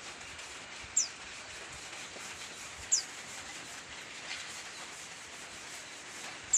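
Juvenile long-tailed shrike practising its song: three short, high chirps, each sliding downward, a few seconds apart over a steady background hiss. It is a young bird still learning its chattering call.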